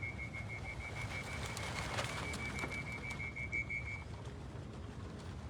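A rapid run of high electronic beeps, about six a second, stopping about four seconds in: the loft's electronic clocking system registering racing pigeons as they cross the trap. Under it is a steady low rumble.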